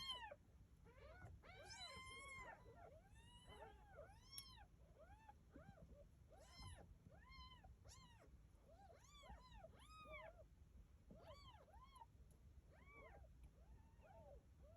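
Kittens mewing faintly: many short, high-pitched calls that rise and fall, about two a second, some overlapping.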